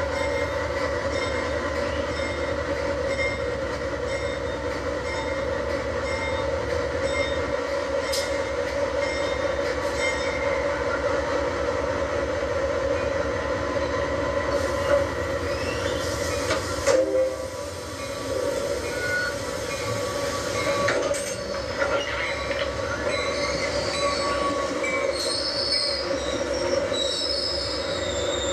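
Train noise: a steady drone with several held tones. High-pitched squealing sets in over the last few seconds.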